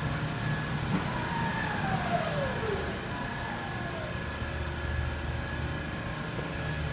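Yale AC turret truck forklift's electric drive running with a steady hum and high whine, while a motor whine falls in pitch about a second in as the motor winds down, then falls again more briefly a little later.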